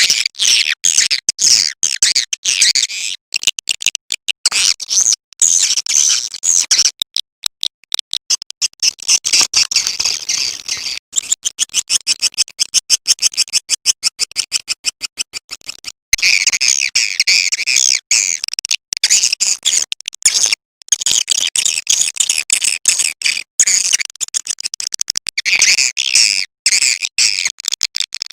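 Swiftlet lure-call recording: edible-nest swiftlets twittering in dense, high chirps. From about a third of the way in to just past the middle, the chirps give way to a fast, even run of short dry clicks, then the twittering returns.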